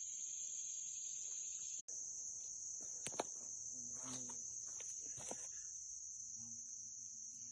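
Steady high-pitched chorus of insects, with a few short clicks and rustles mixed in; the sound cuts out for an instant about two seconds in.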